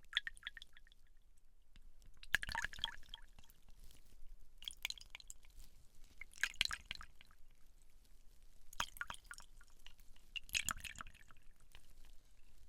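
Fingers working a wet gel or cream, giving sticky, squelching crackles in short groups about every two seconds.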